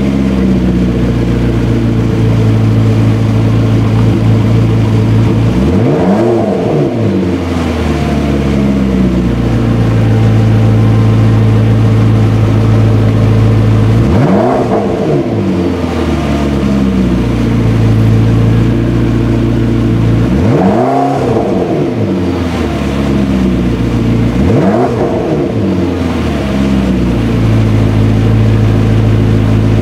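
McLaren 650S Spider's 3.8-litre twin-turbo V8 with sport exhaust idling steadily, revved four times, each rev a quick rise and fall in pitch.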